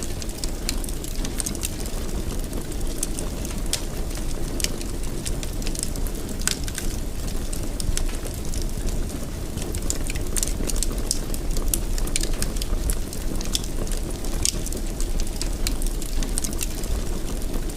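Wood fire burning in a fireplace: a steady low rumble of flame with frequent irregular sharp crackles and pops.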